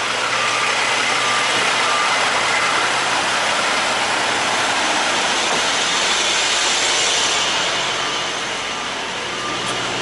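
Semi truck's diesel engine running at idle with a loud, steady hiss over it; the noise eases slightly about eight seconds in.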